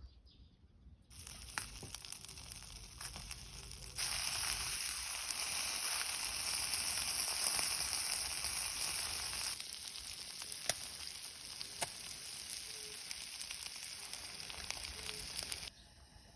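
Food sizzling as it fries in a hot pan, a steady hiss with scattered small pops. The sizzle is loudest between about 4 and 9 seconds in and changes level abruptly a few times.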